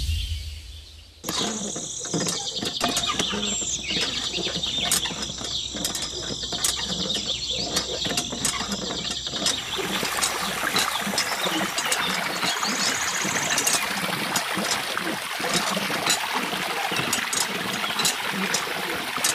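A low whoosh at the very start, then a steady high chirring with light ticks. From about halfway, water runs continuously from a miniature hand pump's spout, splashing into a small toy pool.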